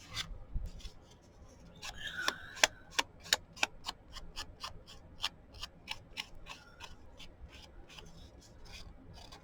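Ink pad dabbed and rubbed along the edges of a paper cut-out: a quick run of short scratchy taps, about three a second, starting about two seconds in.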